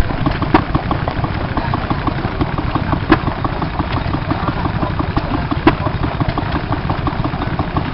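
Vintage stationary engine running with a rapid, even clatter of about six ticks a second over a low rumble, and a sharper crack every two or three seconds.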